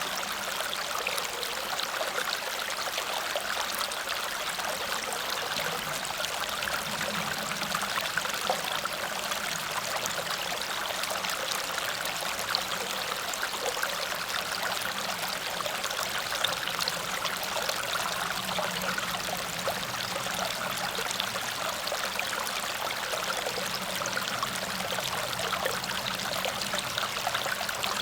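Water cascading over a small waterfall and running on as a stream: a steady, even rush of splashing water.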